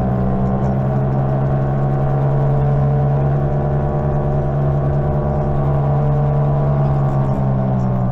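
Greenworks 60V electric mini bike's motor whining steadily at cruising speed, a steady hum of several pitches, with wind rumble underneath.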